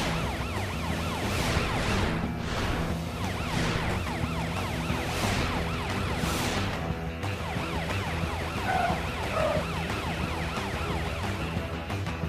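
Cartoon chase soundtrack: a rapidly warbling siren over background music, with several quick whooshes in the first half.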